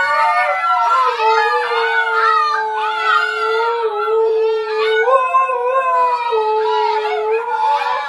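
Dogs howling together. One holds a long, steady low note while the others waver and glide above it.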